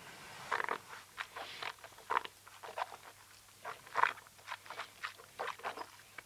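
Wet mouth sounds of tasting neat whisky: a sip, then irregular smacking and clicking as the mouthful is chewed and worked around the mouth.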